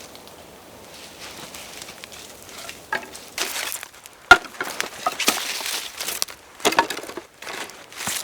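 Small objects being handled: rustling and knocks, with the loudest a sharp, ringing clink about four seconds in.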